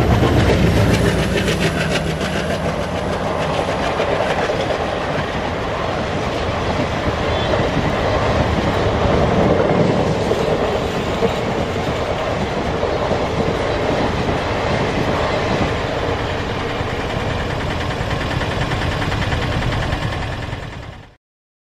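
Passenger train hauled by an ALCo WDM3A diesel locomotive passing at speed, with its coach wheels running over the rails in a steady, loud rush. A low engine hum is strongest in the first few seconds, and the sound cuts off suddenly near the end.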